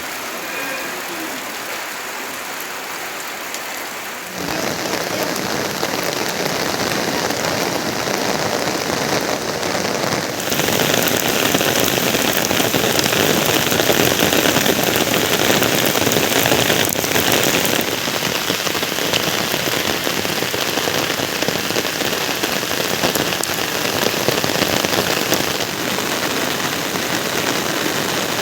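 Steady rain falling, an even hiss of rain on surfaces. It grows louder about four seconds in and heavier again about ten seconds in, easing slightly later on.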